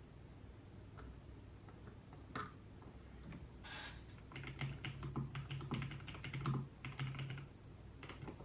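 Typing on a computer keyboard: a few scattered key clicks and a short swish, then a quick run of keystrokes lasting about three seconds with a brief pause in it.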